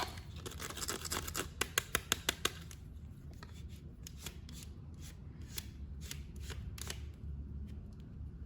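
Hands unboxing an action figure: packaging and hard plastic being handled, with a run of sharp clicks and rustles that come thick in the first couple of seconds and then thin out to scattered clicks.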